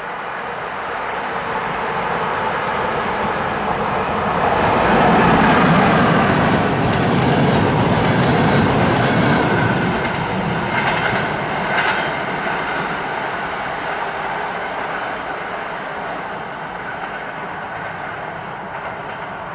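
Passenger train hauled by a Romanian EA-class electric locomotive running past, wheels clattering over jointed track. It swells to its loudest about five seconds in, then slowly fades as it moves away.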